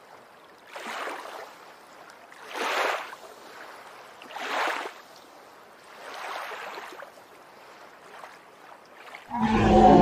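Dinosaur sound effect: four breathy, rasping calls about two seconds apart, each swelling and fading. A much louder, deeper call with a clear pitch starts near the end.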